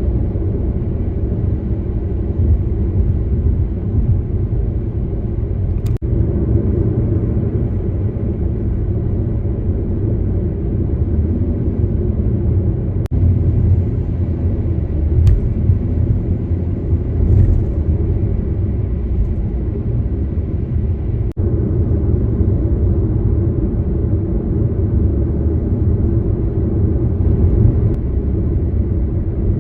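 Steady low rumble of a moving car, with engine and road noise that is strongest in the bass and briefly drops out a few times.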